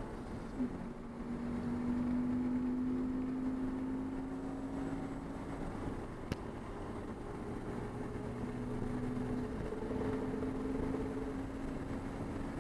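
Race car engine heard onboard, running hard, its pitch climbing slowly through long pulls that break and change about six and ten seconds in. There is a sharp tick about six seconds in.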